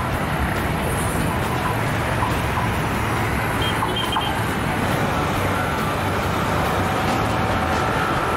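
Steady rumble of a passenger train rolling away along the track, mixed with road traffic beside the line.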